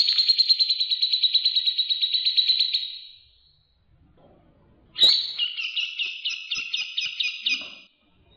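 A songbird giving a rapid chattering trill that fades out about three seconds in, then after a short pause a second, slightly slower series of sharp chirping notes lasting nearly three seconds.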